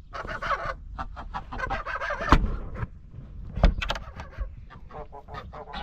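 Domestic ducks calling in rapid, chattering bursts inside their pen, with a few sharp knocks among the calls.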